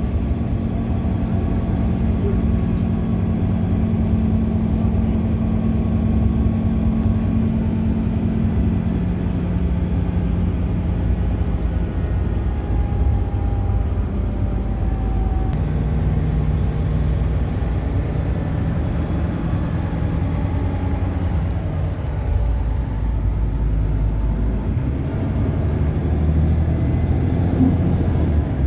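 Bus engine and road noise heard from inside the bus, a steady low drone whose engine note shifts a few times as it changes speed or gear.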